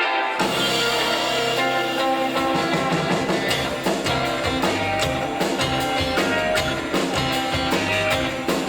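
Live rockabilly band playing a song's instrumental intro: a guitar note rings alone briefly, then the full band comes in about half a second in, with slap bass and drums keeping a steady driving beat under electric guitar.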